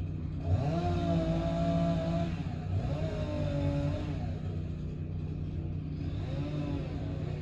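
An engine revving up and easing back down three times, with a steady running sound between the revs.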